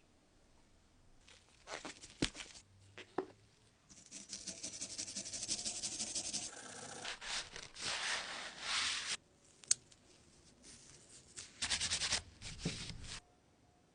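Rapid scratchy rubbing strokes on a Zippo lighter's metal case, worked by hand like sanding, in runs of a few seconds with short gaps. There are a few sharp clicks, the sharpest just before the tenth second.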